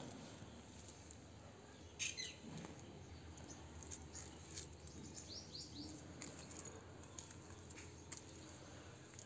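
Faint outdoor garden ambience with small birds chirping. There is one sharp, loudest chirp about two seconds in and a quick run of three short chirps around the middle, over a low steady background hiss.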